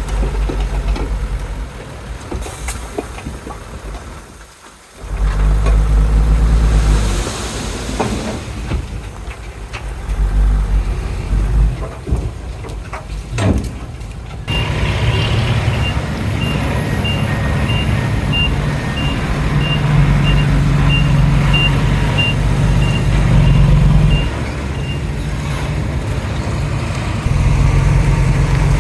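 Bulldozer diesel engine running under load at a landfill. From about halfway through, a reversing alarm beeps steadily at a little more than one beep a second for about ten seconds.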